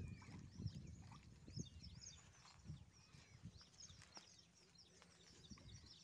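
Faint, busy chirping of many small birds, with a few soft low thuds.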